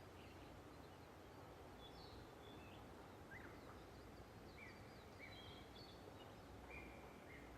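Faint birdsong: scattered short chirps, some sliding in pitch, about one every second, over a low, steady background rumble.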